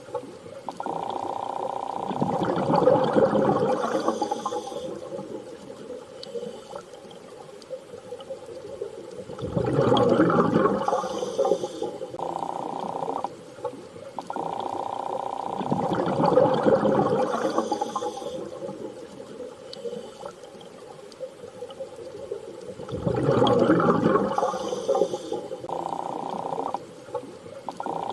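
Underwater ambience: a swell of water rises and falls about every six to seven seconds over a steady droning tone that breaks off briefly a few times.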